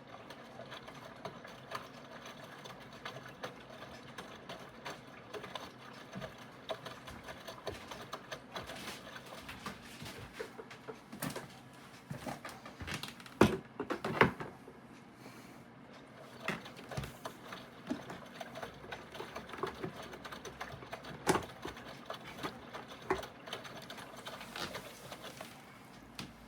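Aidoo 1 kg mini washing machine running, its direct-drive motor working the wash with a steady run of irregular clicks and knocks. A few louder knocks come about halfway through and again later on.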